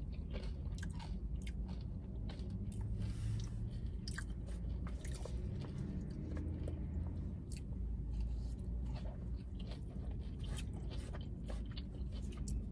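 Close-up chewing and biting of a burrito bowl of rice, black beans, chicken and lettuce, with many small crunches and clicks scattered throughout over a steady low hum.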